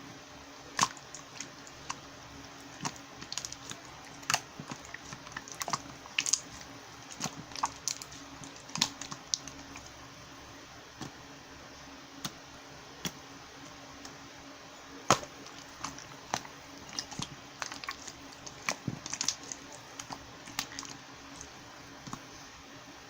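Slime being handled, lifted and pressed, giving irregular sharp clicks and pops at uneven intervals.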